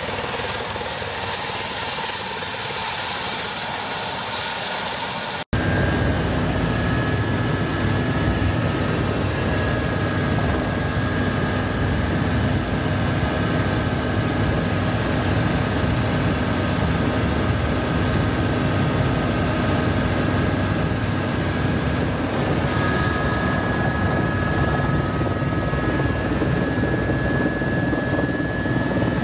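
Helicopter in flight: steady rotor and engine noise. About five seconds in it cuts abruptly to a louder, deeper drone with a steady high whine running through it.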